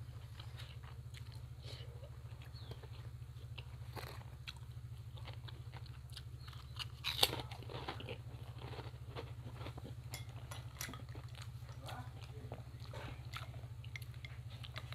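Close-miked mouth sounds of a person chewing and crunching lotek, raw and boiled vegetables, tofu and rice in peanut sauce, with scattered sharp clicks of the chewing, and one louder sharp sound about seven seconds in.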